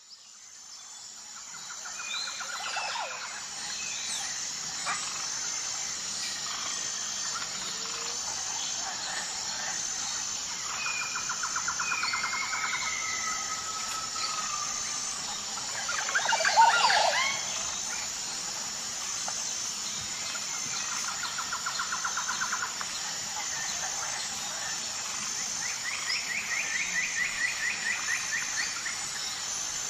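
Jungle ambience of wild birds calling over a steady high-pitched drone, fading in at the start. Birds give several rapid trills and gliding whistles, with one louder call about halfway through that rises in pitch.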